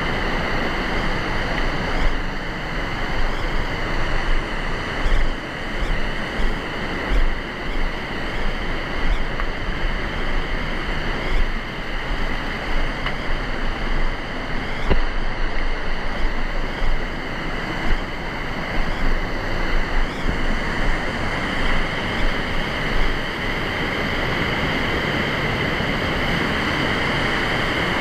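Rushing river water, a steady loud hiss, with irregular low bumps on the microphone.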